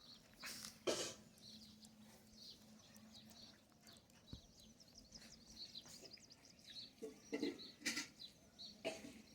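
Birds chirping faintly in the background, with a few short, louder noises about a second in and again near the end.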